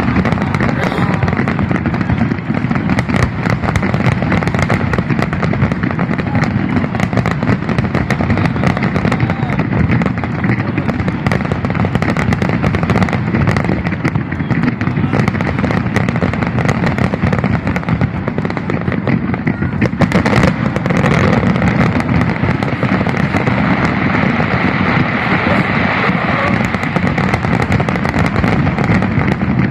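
Fireworks bursting in a rapid, unbroken barrage: many overlapping bangs and crackles run together without a pause, with crowd voices underneath.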